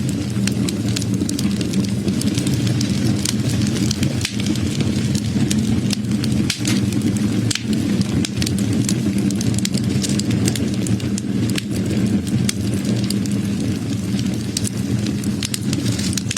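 Wood fire burning, with frequent sharp irregular crackles and pops over a steady low rumble.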